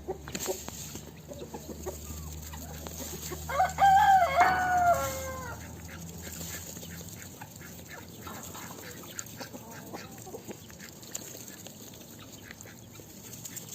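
Bantam rooster crowing once, a call of about two seconds that drops in pitch at the end, with faint clucking around it.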